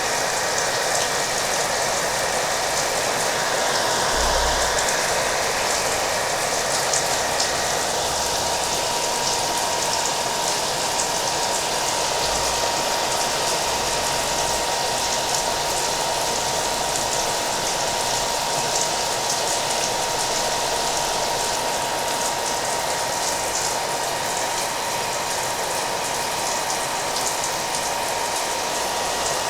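Hair dryer running steadily with a thin, even motor whine, mixed with falling rain.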